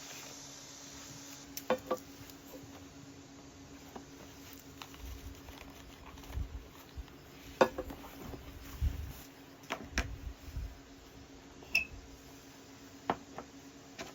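Scattered light clinks and knocks of dishes and utensils being handled, a dozen or so separate strikes, over a faint steady hum.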